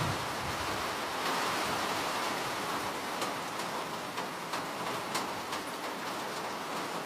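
Steady rain falling, an even hiss with scattered sharp taps of individual drops.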